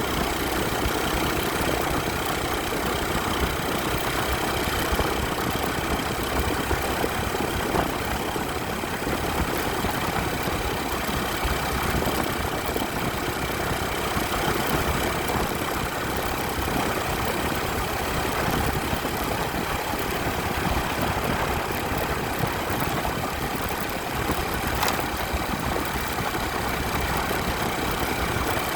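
Motorcycle engine running steadily, with no change in pace.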